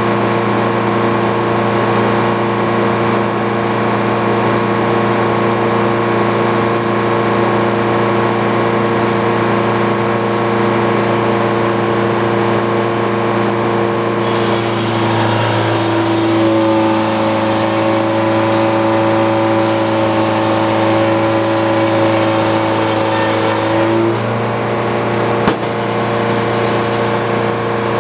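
Engine-driven Frick sawmill running steadily. For about ten seconds in the middle its tone changes and a higher whine joins in, then it settles back to the earlier sound. There is a single sharp click near the end.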